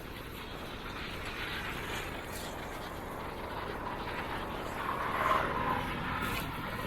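Wind buffeting a small camera's microphone during a bicycle ride, a steady rushing noise that grows a little louder, with a brief louder swell about five seconds in.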